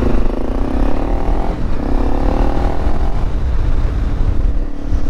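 Honda CRF300 Rally's single-cylinder engine running through an aftermarket MotoX muffler, with a steady low rumble. Its note twice eases down in pitch, up to about a second and a half in and again near three seconds.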